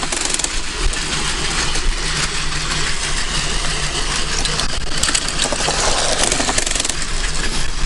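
Several Takara Tomy Plarail toy trains running on plastic track: a steady whir of their small motors with light clicks from the wheels on the track.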